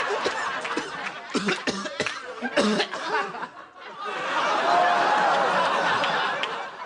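Studio audience laughing, with coughing mixed in.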